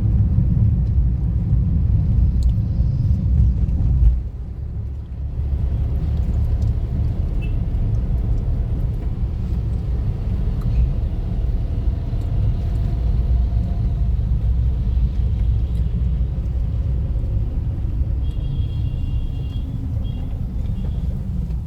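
Motorcycle on the move, heard from the rider's camera: a steady low rumble of wind on the microphone and engine, dipping briefly about four seconds in.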